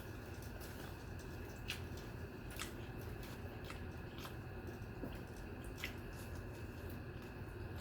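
Close-miked wet eating sounds of rice and curry: soft squelching with a sharp smacking click every second or so.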